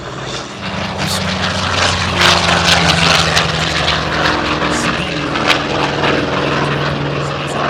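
Piston-engine propeller airplane flying past, its engine growing louder about half a second in and then running on a little lower in pitch.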